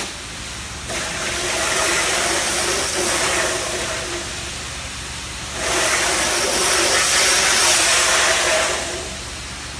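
Low-pressure soft-wash water spray rinsing a gutter: a steady hiss that swells twice, about a second in and again halfway through, over the steady hum of an engine-driven pump.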